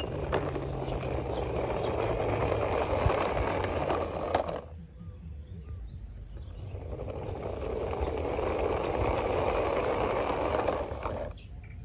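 Small toy cars' wheels rolling over a hard surface in two long runs, the first stopping abruptly about four and a half seconds in, the second building up and cutting off near the end.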